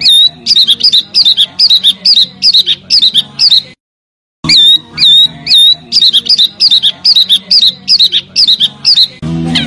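A small songbird repeating sharp, high, loud chirps, each a quick pitch sweep, about three a second, over a faint low hum. The series breaks off briefly about four seconds in, then starts again. Near the end a different bird's quicker chirping takes over.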